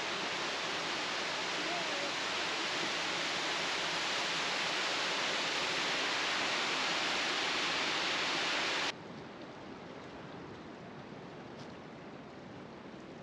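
A steady, even rushing noise outdoors that cuts off abruptly about nine seconds in, giving way to a quieter, steady hiss.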